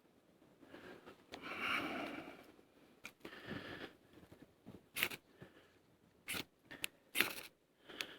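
A ferrocerium rod struck with a scraper to throw sparks onto tinder: about five short, sharp rasping strikes in the last three seconds. They follow a softer rustle of handling about a second in.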